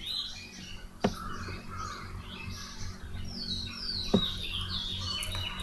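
Birds chirping in the background, with short falling calls about three and a half to five seconds in. Two sharp clicks come about a second in and again about four seconds in.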